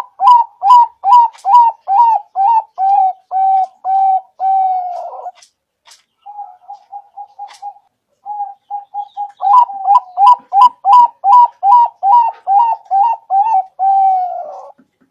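Zebra dove (perkutut) singing: two long series of repeated cooing notes at about two or three a second, each series ending in a longer drawn-out note. Between them comes a quieter run of quick short notes about a second after the first series ends.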